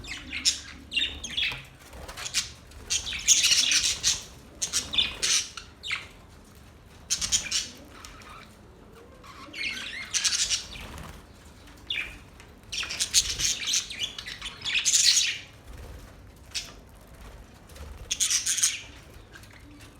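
Pet budgerigars chattering and squawking in short scratchy bursts every second or two, with brief quieter gaps between.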